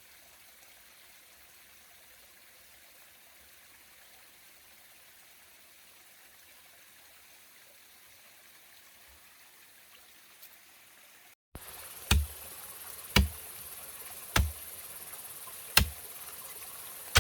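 Faint steady rushing like a small stream. After a cut, five sharp knocks come about a second and a half apart, the loudest sounds here, over a steady high insect drone.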